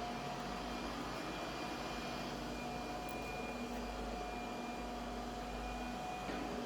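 MOOSOO MT-720 robot vacuum running: a steady whir from its suction fan and brushes, with a thin constant whine over it.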